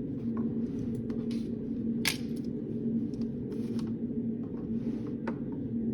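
Steady hum of a reading room's air handling with a constant low tone, overlaid by scattered light taps, clicks and short scratchy rustles from someone working at a desk.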